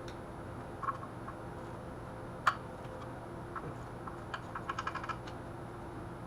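Hand ratchet and metal tool clicks while engine-cover bolts are worked loose: a few sharp single clicks, the loudest about two and a half seconds in, then a quick run of about eight ratchet clicks near the end, over a steady low hum.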